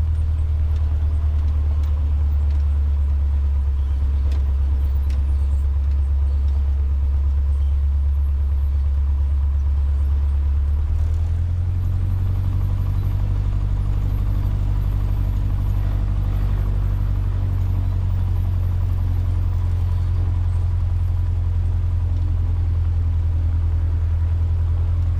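Cessna 150's Continental O-200 four-cylinder engine running steadily at low power while taxiing, its note changing about eleven seconds in.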